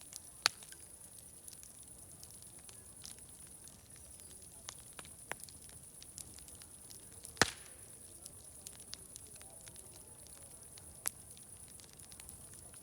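Wood fire crackling: irregular sharp pops and snaps, the loudest about seven seconds in, over a faint steady background.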